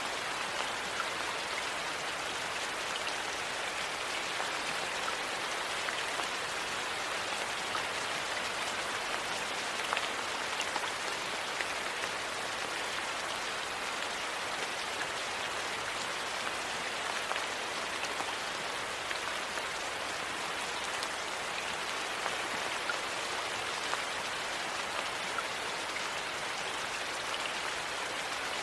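Steady rain, with small crackles and pops of a wood fire scattered through it.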